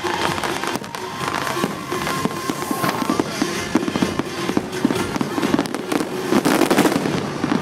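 A fireworks display: a rapid string of bangs and crackles over show music, growing denser and louder about six seconds in.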